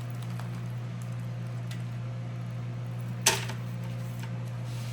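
Food dehydrator running with a steady low hum, with one sharp knock about three seconds in as a tray or door is put back.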